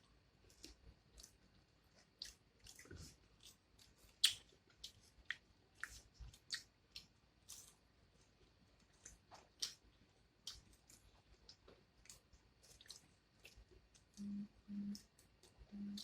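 Faint, close-up eating sounds: chewing with scattered wet mouth clicks and smacks. Near the end come four short low hums in two pairs.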